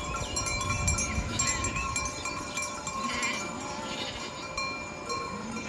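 Bells on a flock of sheep ringing and clinking steadily, with a few sheep bleating. A low rumble runs under the first couple of seconds.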